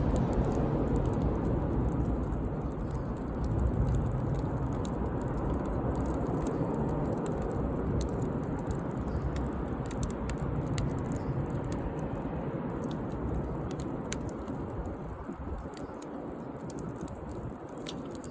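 Wood fire burning, with scattered sharp crackles and pops over a low rushing that slowly fades.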